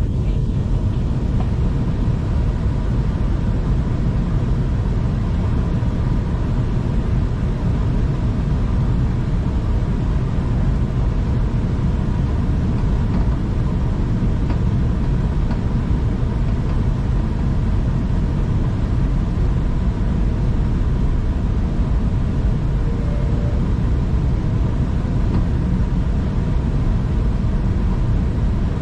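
Steady rumble of a V/Line passenger train under way, heard from inside the carriage, with a faint steady whine over the low running noise of wheels on the track.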